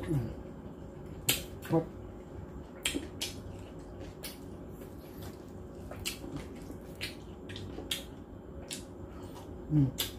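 Close-up eating sounds of crispy lechon (roast pork) skin being picked apart by hand and chewed: a dozen or so sharp, irregular crunches and clicks. A short hummed "mm" comes right at the start and another, louder one near the end.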